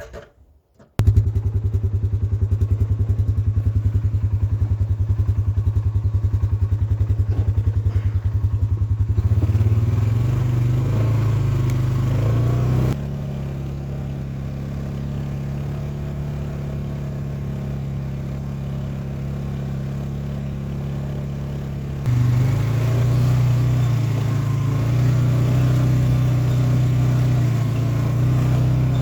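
Small engine running, cutting in abruptly about a second in with a fast, even pulsing. Its note changes about nine seconds in, drops quieter a few seconds later, and comes back louder in the last third.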